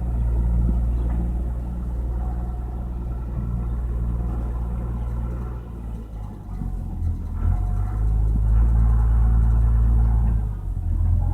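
Tractor's engine running with a deep, steady rumble. The sound changes about six seconds in and is loudest for a couple of seconds near the end.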